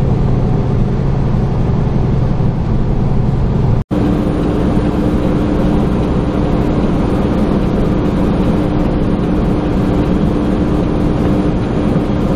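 Steady engine and road noise of a Super B train semi-truck, heard from inside the cab. The sound cuts out for an instant about four seconds in, and after that the steady hum sits higher in pitch.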